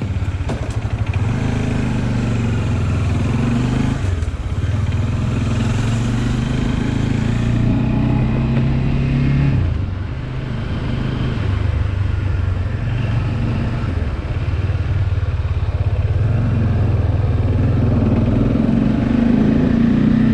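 Bajaj Dominar 400's single-cylinder engine running steadily on the move, the engine note easing briefly about halfway through before picking up again.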